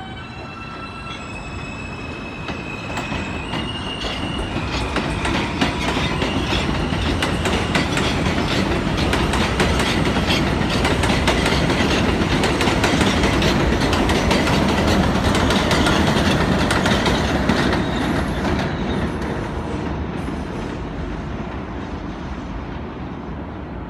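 New York City subway train running past, its wheels clacking over rail joints. The sound builds to its loudest in the middle and fades toward the end, with a stepped electric whine from the propulsion in the first few seconds.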